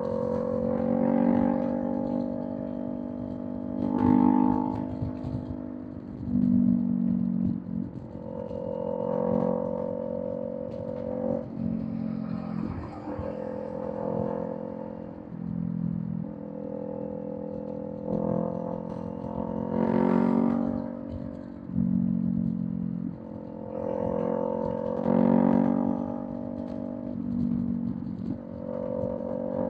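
Kawasaki Z400 parallel-twin engine through a Villain M1 exhaust, running steadily under way, its note swelling and easing every second or two as the throttle is worked.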